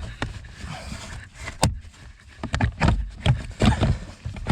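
Irregular plastic clicks and knocks as the Mercedes W204's cabin blower fan unit is pulled and worked loose from its mounting under the dashboard. There is one sharp click about a second and a half in, and a quick run of knocks in the second half.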